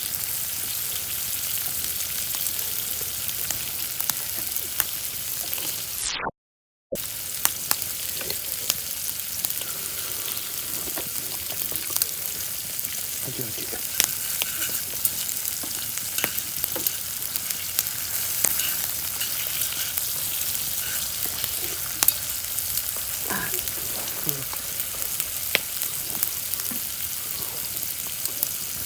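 Food sizzling and crackling in hot oil in a pan: a steady hiss with frequent sharp pops. The sound cuts out completely for about half a second around six seconds in.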